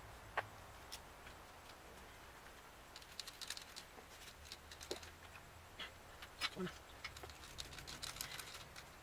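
Light, irregular clicks and clinks of hand tools and small metal parts being handled during engine work: a sharp click about half a second in, then a denser patter of small clicks from about three seconds on.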